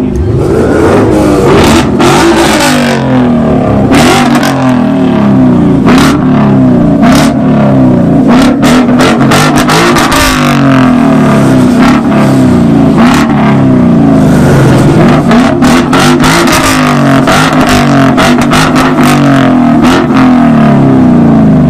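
Car engines revving hard again and again in a rev battle, a loud, continuous sound that rises and falls, with sharp pops and crackles throughout.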